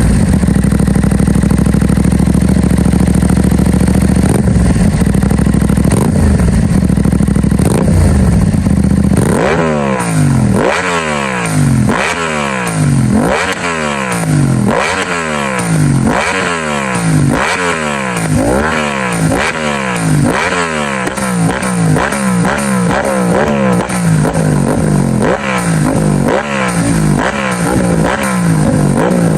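Aprilia Tuono 660's parallel-twin engine through a Mivv Delta Race aftermarket exhaust, idling steadily, then from about nine seconds in blipped again and again, about once a second, each rev rising and dropping straight back.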